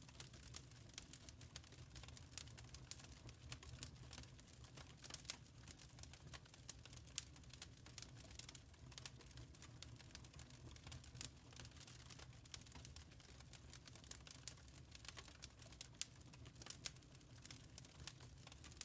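Quiet wood fire crackling in a fireplace: irregular small pops and snaps over a low steady rumble.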